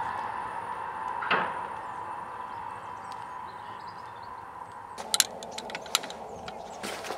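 Sapsan high-speed electric train moving away, its steady, slightly whining hum fading as it goes, with one short knock about a second in. About five seconds in the sound changes to a run of sharp clicks and scrapes close to the microphone.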